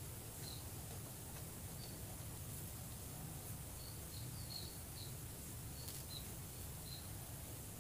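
Faint background with a steady low hum and scattered short high chirps of small birds, more of them in the second half.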